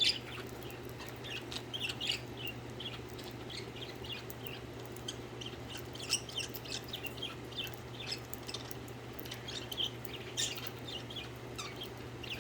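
Several pet budgerigars chirping and chattering in short, scattered high chirps, over a faint steady low hum.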